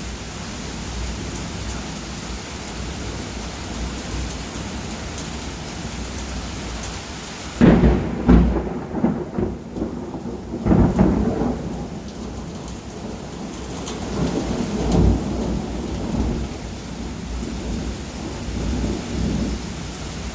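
Steady rain, then about a third of the way in a sudden loud thunderclap breaks into long rolling thunder. The rumble swells again a few times as it dies back under the rain.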